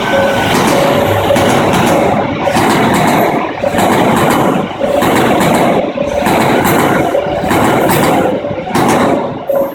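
Tsubasa Shinkansen train running past close by: a loud, continuous rumble with regular surges roughly every half second to second as the cars go by. A repeating on-off tone sounds alongside.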